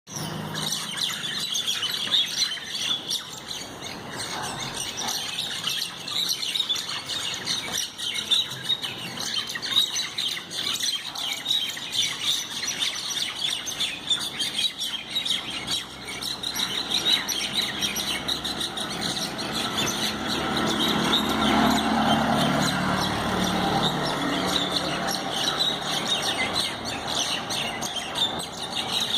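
Common mynas fighting, calling in a dense, unbroken run of chirps. A lower, louder noise swells about two-thirds of the way through.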